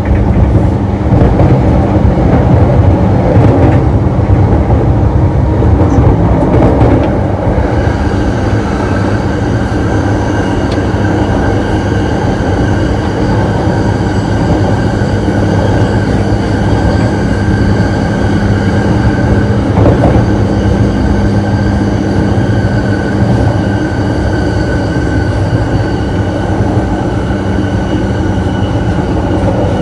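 An E233 series electric train running, heard from inside the gangway between two cars: a loud, steady rumble of wheels and running gear. About seven or eight seconds in, a set of steady high whining tones joins it and holds.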